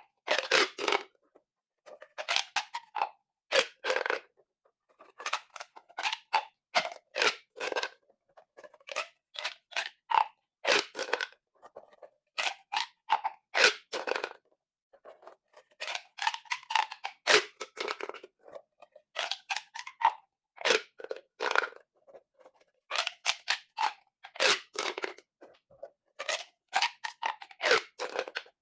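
Plastic pop tubes being stretched and squashed: each pull or push sets off a quick run of clicks from the ribbed plastic, in short bursts with brief pauses between them.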